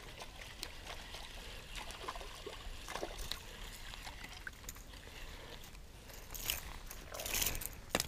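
Faint trickle of river water over rocks, with scattered small clicks and a brief louder rush of noise about seven and a half seconds in.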